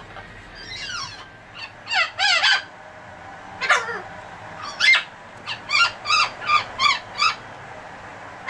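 Pet parrot calling: a string of short, pitch-bending whistles and squawks, with a quick run of about eight brief calls in the second half.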